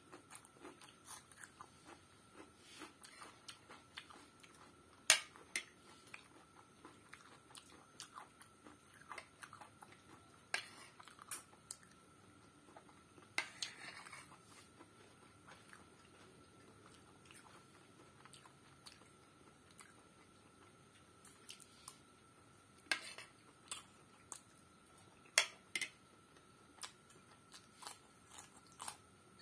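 Close-miked eating: chewing and biting of soft egg pasta and crunchy raw cucumber, with sharp clicks now and then and a short scrape of a spoon through the food about halfway through.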